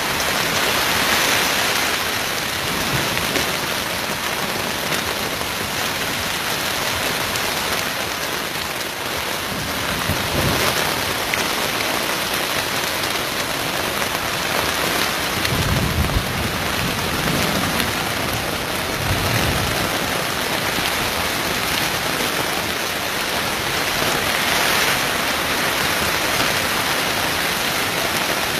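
Heavy rain pouring steadily in a thunderstorm, with low rumbles of thunder twice about halfway through.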